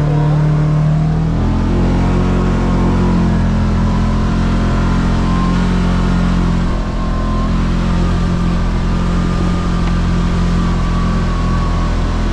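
Side-by-side UTV engine running under way, with the engine note rising about a second and a half in and falling back near the end.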